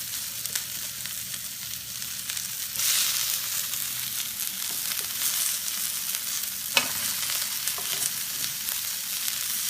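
Onions and peppers sizzling in hot vegetable oil in a pan, a steady hiss that gets louder about three seconds in. A single sharp knock about seven seconds in.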